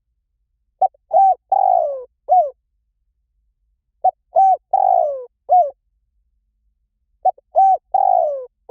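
Spotted dove cooing: three repeated four-note phrases, each a short note, a second note, a long falling coo and a short closing note, about three seconds apart.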